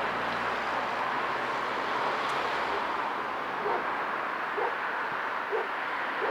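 Outdoor city street ambience: a steady wash of traffic noise with a low engine hum that fades about two seconds in, and soft knocks about once a second in the second half.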